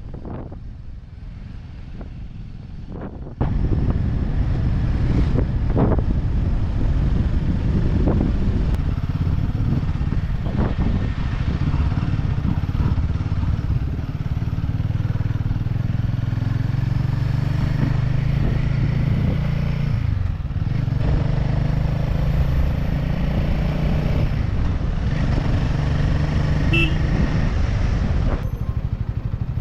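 Motorcycle engine running on the move, with wind on the microphone. For the first three seconds or so there is mostly quieter wind rush, then the engine sound comes in suddenly and loud and runs steadily with small changes in pitch.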